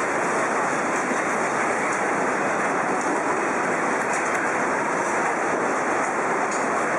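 A steady, even rushing noise with no breaks or distinct impacts, of the kind made by fast-moving water or strong wind.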